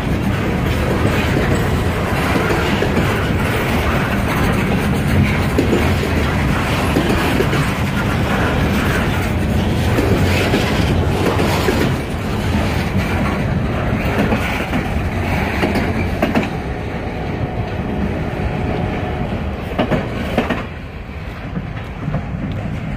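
Freight train rolling past close by: a steady rumble and clatter of car wheels over the rail joints, with a faint thin wheel squeal in the second half. The noise eases toward the end as the stainless-steel passenger car on the tail goes by.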